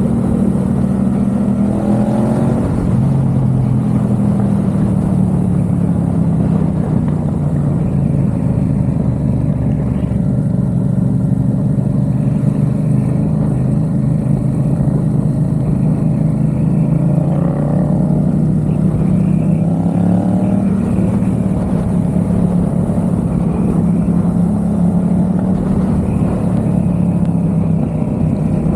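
Yamaha XSR700's parallel-twin engine with a MiVV aftermarket exhaust, riding under way. The engine note climbs with throttle about two seconds in and twice more past the middle, and otherwise holds steady.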